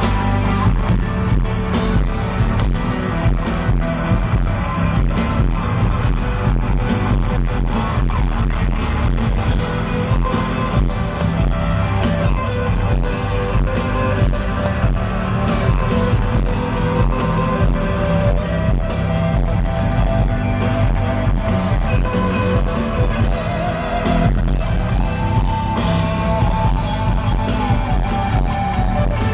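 Rock band playing live, electric guitar to the fore over bass and drums, with a sustained melodic lead line coming in about halfway through.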